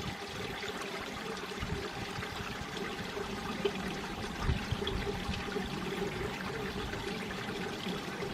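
Mountain stream water flowing over rocks: a steady rush and trickle, with a few soft low thuds along the way.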